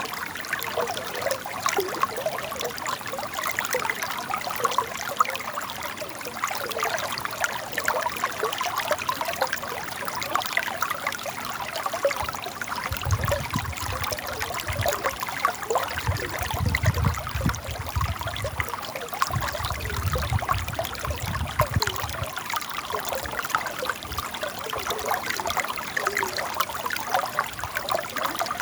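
River water running and trickling steadily. About halfway through, a low rumble comes and goes in three stretches over several seconds.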